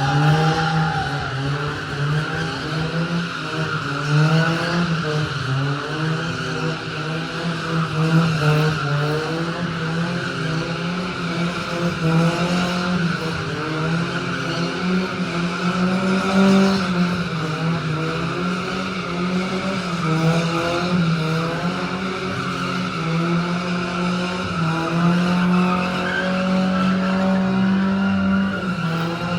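Drift car's engine revving up and down with its tyres squealing continuously as it slides.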